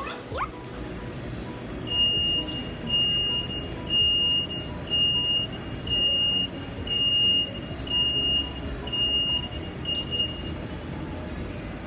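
Electronic beeper sounding a string of nine high, steady beeps about once a second, starting about two seconds in and stopping near the end.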